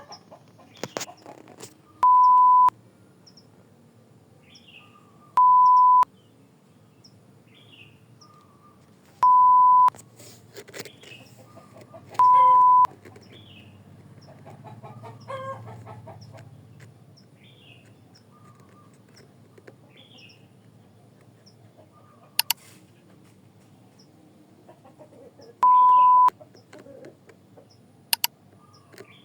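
A steady, single-pitched electronic beep sounding five times, each about half a second long and spaced irregularly, over faint bird chirps. Two sharp clicks come late on.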